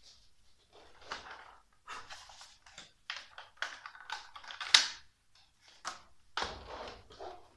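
Hands handling the plastic parts of a Roomba robot vacuum: irregular clicks, scrapes and rustling, with one sharp click a little under five seconds in.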